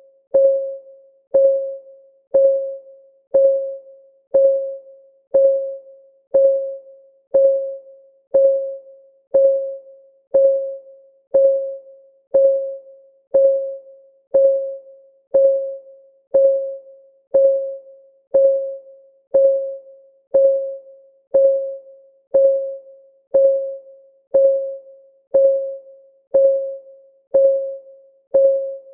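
Countdown-timer clock ticking sound effect, one tick a second, very even. Each tick is a short pitched tock with a crisp attack that dies away quickly.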